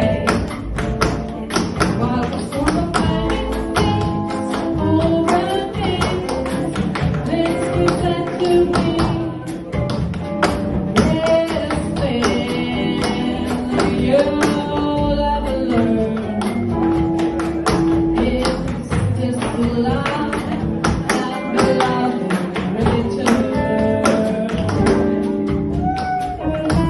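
Live jazz band of guitar, double bass and drums playing, with tap shoes clicking in quick, dense rhythms over the music.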